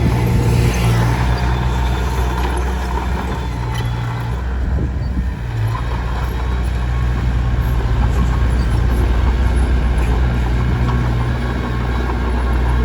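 Komatsu D21P crawler bulldozer's diesel engine running steadily under load, with rattling and clatter from its tracks and the stone being pushed. The engine eases off slightly near the middle and then picks up again.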